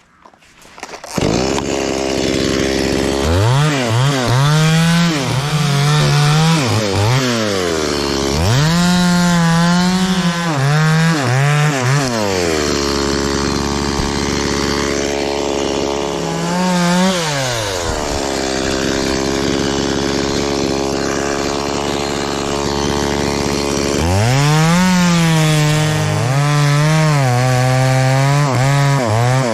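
Chainsaw engine starting up about a second in, then revving up and cutting into wood several times, dropping back to idle between cuts.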